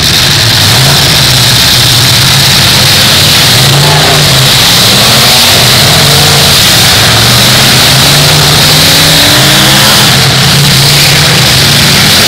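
Several full-size demolition derby cars' engines revving up and down at once over loud steady noise, their pitches rising and falling again and again.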